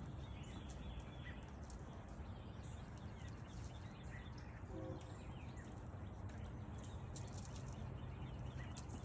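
Faint background noise with a steady low hum and a few faint bird chirps.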